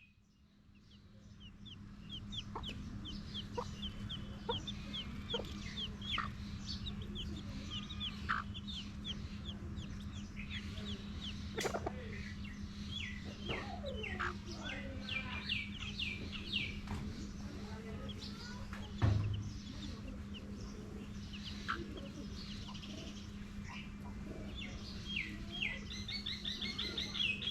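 Baby chicks peeping in quick high strings while a mother hen clucks, calling them to food. A steady low hum runs underneath, and there is one loud thump about two-thirds of the way through.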